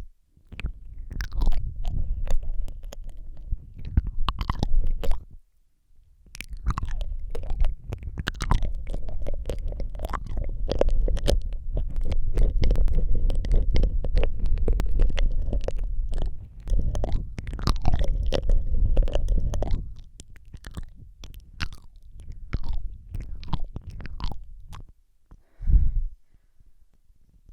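Close-miked ASMR mouth sounds on a Rode microphone: rapid wet lip smacks, tongue clicks and licking. A dense low rumble from the mouth pressed against the mic runs under the clicks through most of the middle, and they thin out near the end.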